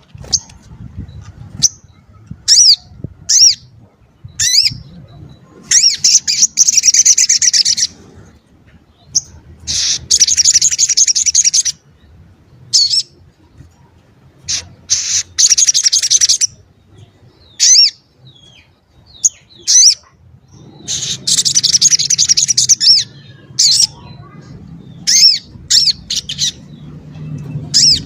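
Little spiderhunter (sogok ontong) calling: sharp, high, short notes repeated at irregular intervals, broken four times by rapid trilled phrases of about two seconds each. A faint low hum runs underneath.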